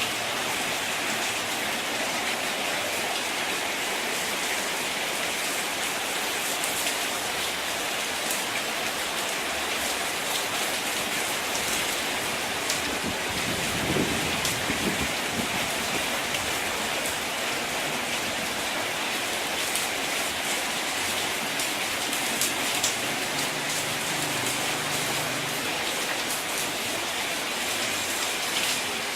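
Steady rainfall: an even hiss with individual drops ticking on a surface. A brief low rumble comes about halfway through.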